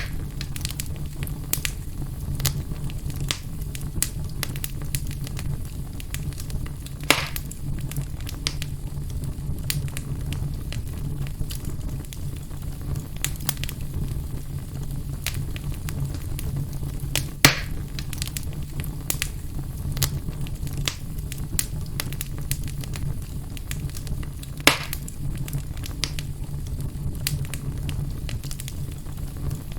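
Wood fire burning in a fireplace, crackling with frequent small snaps over a steady low rumble, with three louder pops spread through.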